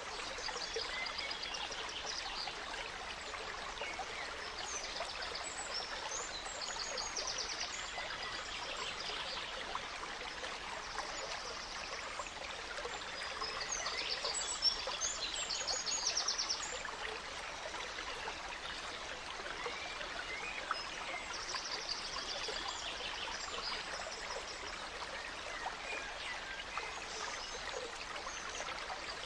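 A gentle stream trickling and flowing steadily, with songbirds singing over it in short repeated chirps and trills throughout.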